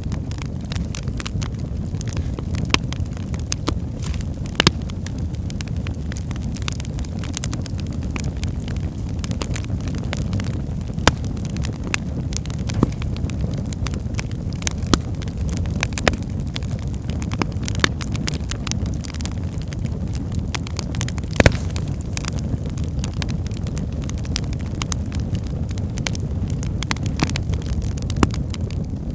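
Wood fire burning in a fireplace: a steady low rumble of flames with frequent crackles and sharp pops of burning logs, a few louder pops scattered through.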